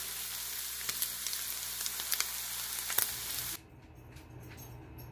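Canned corned beef hash with diced potatoes sizzling in a frying pan: a steady hiss with scattered crackles and pops. It cuts off abruptly about three and a half seconds in, leaving quiet room tone.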